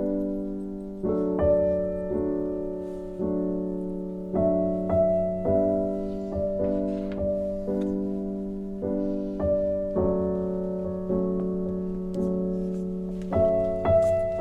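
Soft background piano music: slow chords struck about once a second, each ringing and fading before the next.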